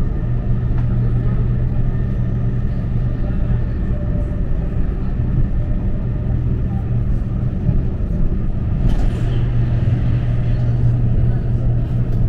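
Passenger train running along the track: a steady, even low rumble.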